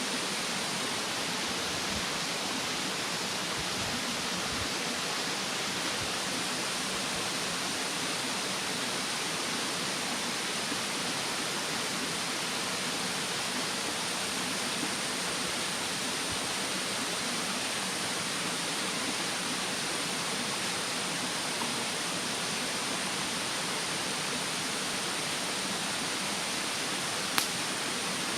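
Steady rushing of a mountain stream, with a single sharp crackle from the burning firewood near the end.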